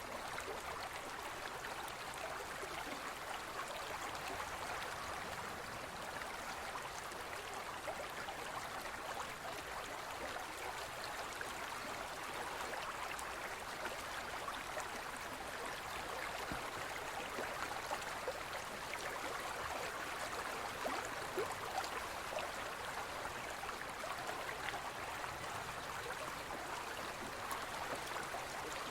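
Forest stream flowing over rocks: a steady babbling and gurgling of shallow running water.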